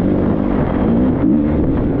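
Triumph 250 motocross bike's four-stroke single-cylinder engine running under load, its pitch rising and falling as the throttle is worked, with wind buffeting the microphone.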